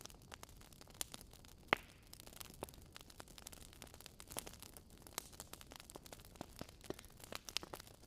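Fireplace fire crackling: irregular sharp pops and snaps over a soft hiss, with one louder pop nearly two seconds in.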